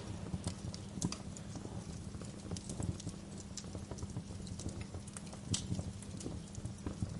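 Wood fire crackling: irregular sharp pops and snaps over a steady low background, with a couple of louder pops about a second in and again past the middle.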